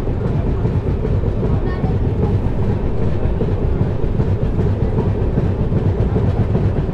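Passenger train coach running along the track, heard at its open window: a steady, mostly low noise of wheels on the rails.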